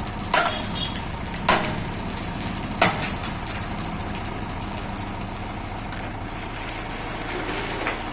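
An engine runs steadily throughout. Three sharp knocks come in the first three seconds, about a second apart.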